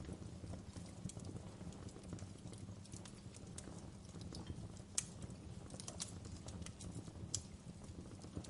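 Wood fire crackling in a fireplace: a steady low rumble of flames with scattered small crackles and two sharper pops, about five and seven seconds in.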